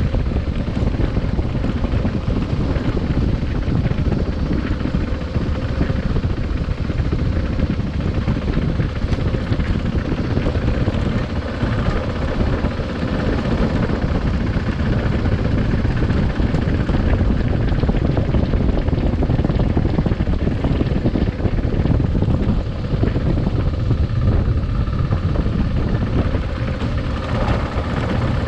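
Adventure motorcycle being ridden: the engine runs steadily under a heavy rush of wind and road noise at the microphone.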